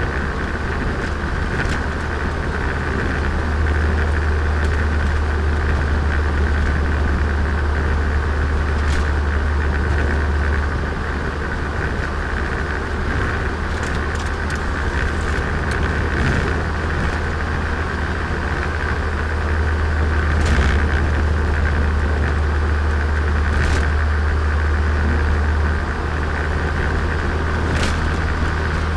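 Turbocharged Nissan Micra engine and exhaust running while driving, heard onboard as a steady low drone that grows louder twice and eases back. A few short clicks or knocks sound over it.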